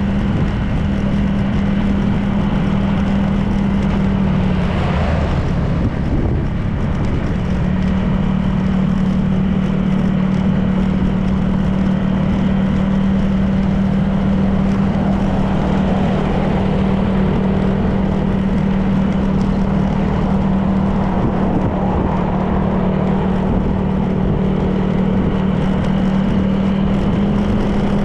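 Honda PCX 160 scooter's single-cylinder engine running at a steady cruise, with road and wind noise. The engine note dips briefly about five seconds in, then settles back to a steady pitch.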